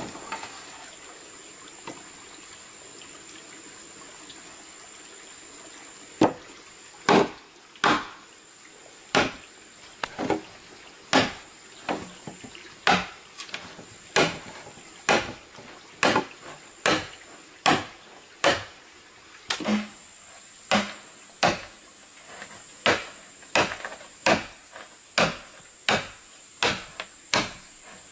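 Repeated sharp blows on wood, as in chopping with a blade or hatchet, starting about six seconds in and going on at a steady pace of roughly one to one and a half strokes a second. A steady high-pitched whine runs underneath throughout.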